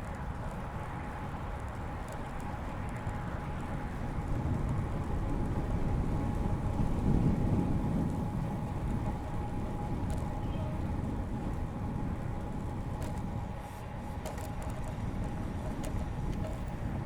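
Steady low rumble of wind and tyre noise from riding a road bike along a paved bike path, swelling for a few seconds about halfway through, with a few faint ticks.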